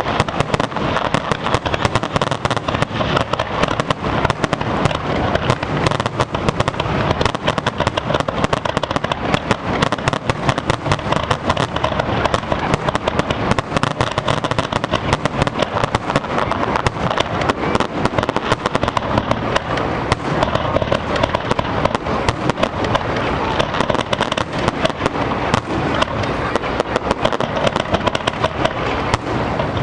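Aerial firework shells bursting in rapid, unbroken succession: a dense barrage of overlapping bangs and crackles, many a second.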